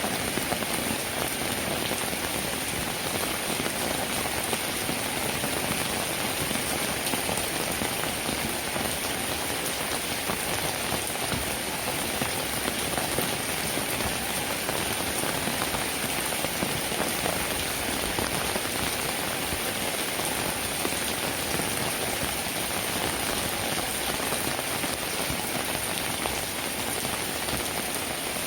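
Steady rain falling, a dense even patter of drops that keeps up without let-up.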